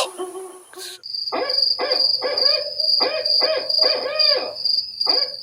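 An owl hooting, a quick run of pitched hoots lasting about four seconds, with crickets trilling steadily behind.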